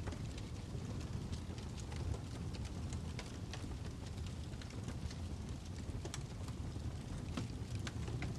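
Fire crackling: a steady low rumble of burning with irregular sharp pops and snaps, a few louder ones late on.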